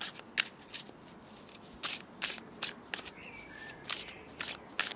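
Tarot cards being shuffled by hand: irregular crisp snaps and flicks of the cards, several a second.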